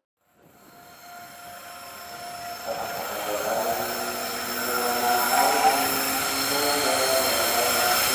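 Diesel-electric locomotive hauling a freight train approaching, its engine drone growing steadily louder after fading in from silence.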